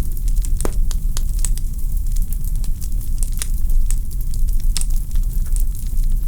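Wood fire in a fireplace crackling: logs giving off irregular sharp pops and snaps, several a second, over a steady low rumble.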